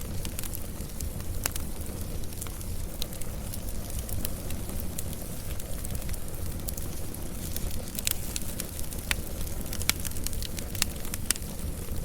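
Wood fire burning, with a steady low rumble under frequent sharp crackles and pops at irregular intervals.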